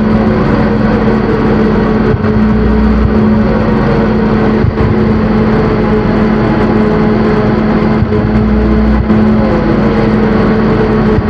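Loud noise-drone music from drone synthesizers: a dense wash of noise over a steady low drone, with short falling glides recurring every few seconds and a deep bass that comes and goes.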